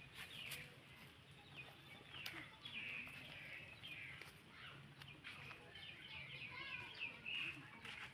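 Many short, high-pitched animal chirps and squeaks, a busy twittering chatter with a few sharp clicks.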